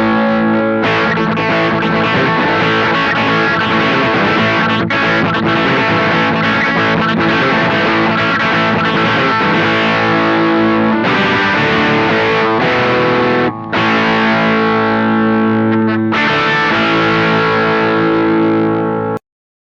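Electric guitar played through the Witchcraft Velouria FX distortion/preamp pedal: heavily distorted chords held and changed every few seconds, with brief breaks between them. It cuts off suddenly near the end.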